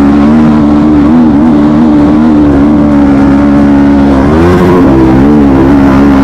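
Honda CRF snowbike's single-cylinder four-stroke engine running hard and loud, close up, its pitch wavering with the throttle and rising briefly about four seconds in.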